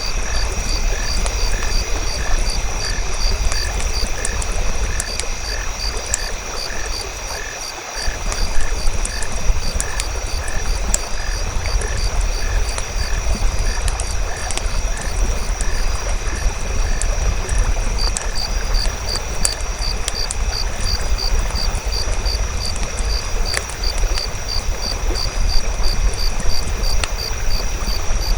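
Night nature ambience: frogs croaking in an even repeating rhythm, with insects trilling steadily and the scattered crackle of a campfire.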